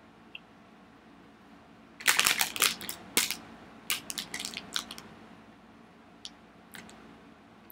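A person chewing a sugar-coated gummy candy close to the microphone. Irregular chewing and smacking clicks start about two seconds in, are densest for the next few seconds, and thin out to a few stray clicks near the end.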